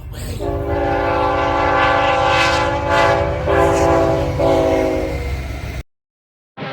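Diesel freight locomotive's multi-chime air horn sounding a chord of several notes for about five seconds, with two brief breaks in the blast, over the low rumble of the train. The sound cuts off abruptly near the end.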